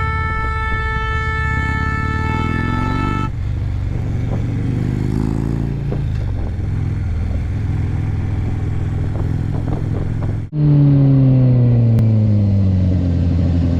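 A vehicle horn sounds one steady, held note for about three seconds. Throughout, a motorcycle engine runs on the road. After an abrupt break about ten seconds in, the engine is louder and its revs fall steadily.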